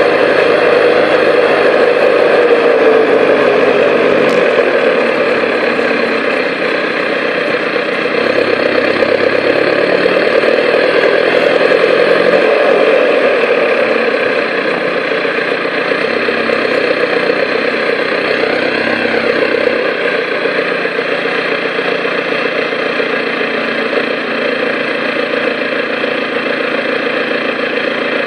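Vauxhall Vectra 1.9 CDTi four-cylinder turbodiesel running through a straight-piped exhaust, with no catalytic converter or silencers after the pre-cat. The engine note drops from higher revs over the first few seconds, then runs fairly steadily with slight rises and dips.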